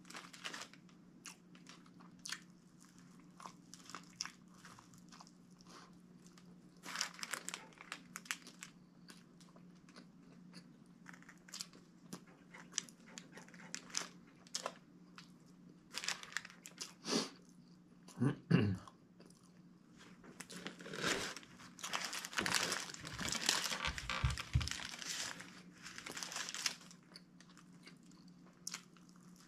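Close-up chewing and biting of Subway hoagie sandwiches: irregular wet mouth clicks and crunches, heavier and denser in the second half, over a steady low hum.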